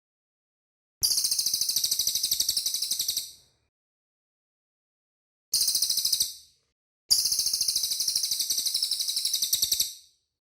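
Cililin songbird singing three rapid-fire trills, each a fast, even run of high piercing notes; the first and last last two to three seconds, the middle one about a second.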